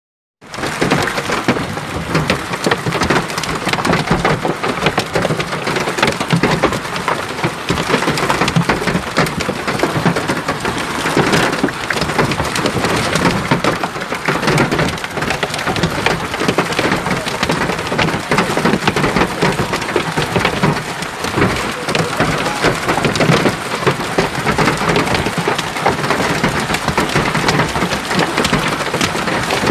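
Heavy hail falling, a dense, steady clatter of hailstones striking hard surfaces.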